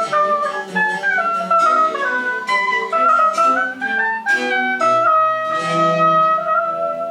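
French Baroque chamber music: a woodwind melody over a plucked-string accompaniment, moving in steps and then settling on a long held note in the last two seconds, as at the close of a phrase.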